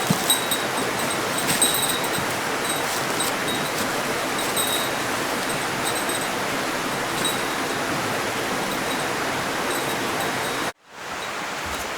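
A steady rushing hiss with faint, scattered crackles. It cuts out abruptly about eleven seconds in and comes back a moment later, slightly quieter.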